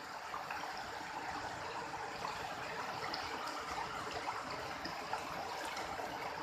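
A rocky river flowing, with a steady rush of water and small splashes.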